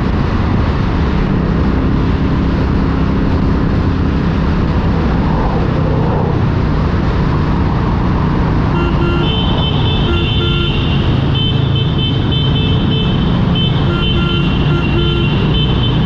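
Motorcycle engines running with road and wind noise, then from about halfway through, motorcycle horns honking in a string of long and short blasts inside a tunnel.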